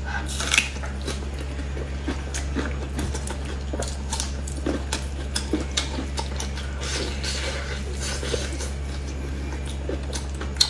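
Close-up wet chewing, lip-smacking and tearing of soft braised meat: irregular short squishy clicks and smacks, with a steady low hum underneath.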